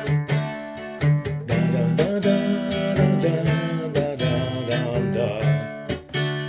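Acoustic guitar strumming chords in a steady rhythm. From about a second and a half in, a held, wavering melody line sounds over the chords.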